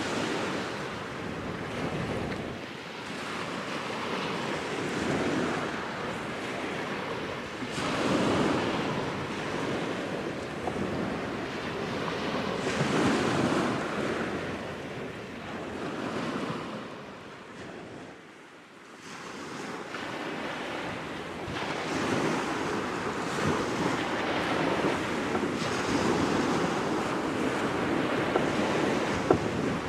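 Waves washing onto the shore at Calshot Spit, swelling and easing every few seconds, with wind buffeting the microphone.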